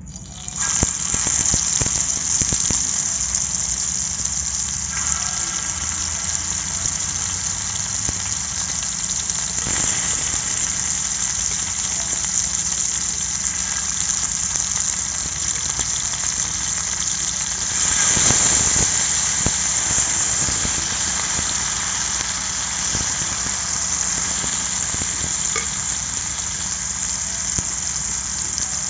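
Marinated chicken tikka pieces frying in hot oil on an iron tawa: a loud, steady sizzle that starts suddenly about half a second in as the first piece goes into the oil, and swells briefly about two-thirds of the way through.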